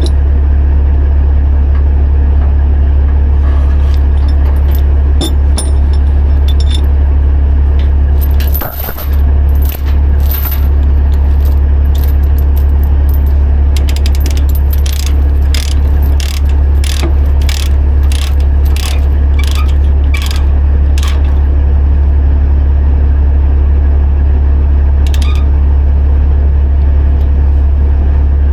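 Tie-down chains clinking and a chain binder being ratcheted tight, a run of sharp metal clicks at about two a second, over a steady low hum.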